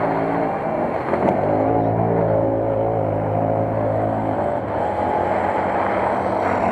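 Off-road vehicle engine running steadily, its pitch shifting a couple of times.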